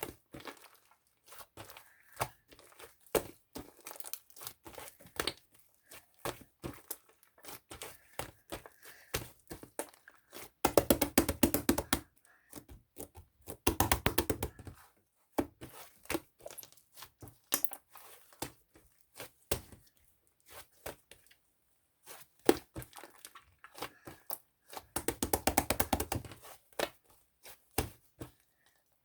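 Irregular clicks, taps and crinkling from small objects being handled, with a few runs of rapid clicking.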